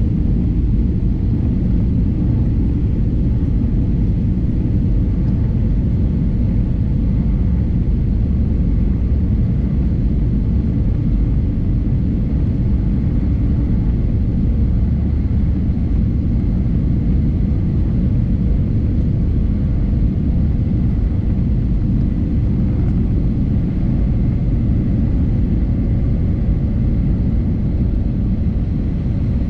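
Steady cabin noise inside an Airbus A320neo in flight, heard from a window seat behind the wing: a low, unbroken rumble of its Pratt & Whitney PW1100G geared-turbofan engines and the airflow, with faint steady hum tones above it.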